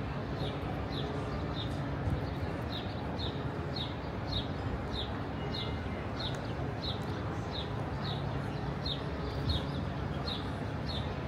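A bird chirping over and over, one short high falling note about every half second, over steady background street noise.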